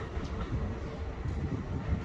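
Kintetsu electric train standing at the platform, a steady low rumble and hum from the stopped train.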